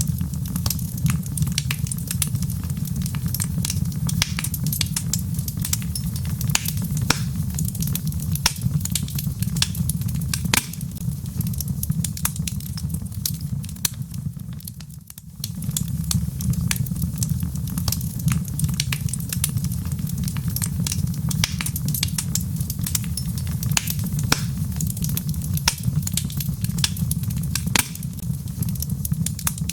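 Wood fire burning in a fireplace: a steady low roar with dense, irregular crackles and pops from the logs. It dips briefly about halfway through.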